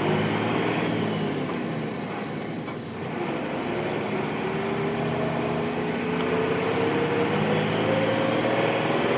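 Nissan Diesel FE6 six-cylinder diesel engine of a KC-RM211 Space Runner RM midsize bus pulling under load. The revs dip briefly about three seconds in at a shift of its five-speed manual gearbox, then climb steadily again as the bus accelerates.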